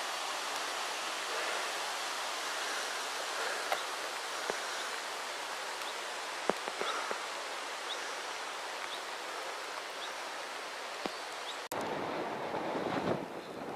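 Steady outdoor rushing noise of running water, with a few faint clicks. Near the end it cuts out for an instant and turns into a lower, gusting wind noise on the microphone.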